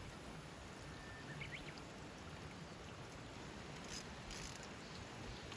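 Faint, steady outdoor background hiss, with a short high chirp about one and a half seconds in and a few soft clicks near the end.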